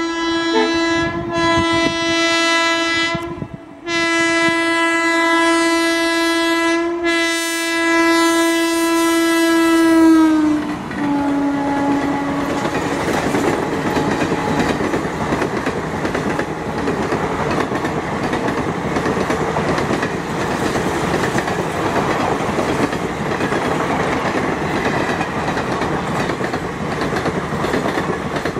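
WAP-4 electric locomotive sounding its horn in long blasts, broken twice briefly. The pitch drops as it passes about ten seconds in. Then the express's coaches rush past, with steady wheel noise and clatter over the rail joints.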